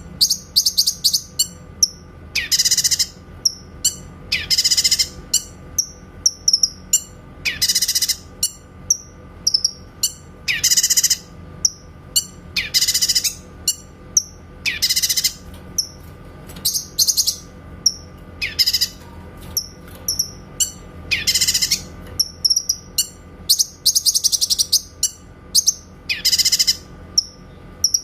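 Cucak kinoy singing its 'tembakan' song: loud, high-pitched phrases of rapid stuttering notes, repeated about every two seconds, with softer chirps between them.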